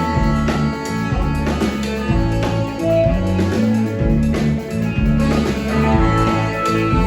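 Live band playing, guitar over a steady bass line and drums.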